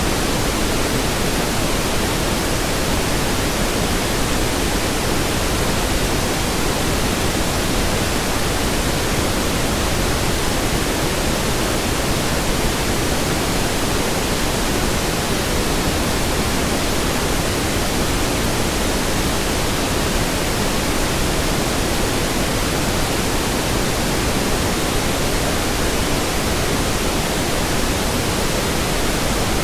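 Steady pink noise: an even, unchanging hiss across the whole range of pitch, with no events or variation.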